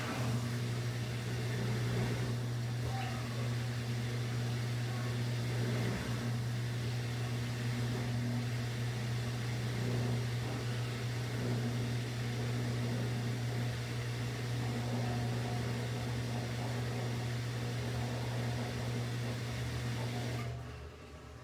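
Washing machine running with a steady low motor hum and a wash of drum and water noise; near the end the hum drops away abruptly, as the drum pauses.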